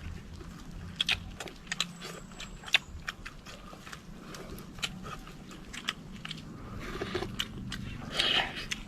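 People chewing and biting food, with irregular sharp clicks and crunches; a louder noisy burst comes near the end.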